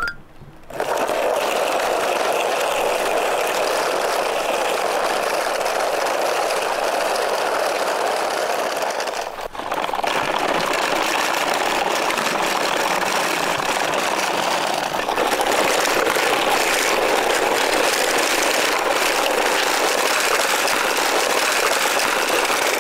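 Steady rolling noise of a toy minicar truck's wheels running across a playset, broken by short pauses about half a second in and again near ten seconds.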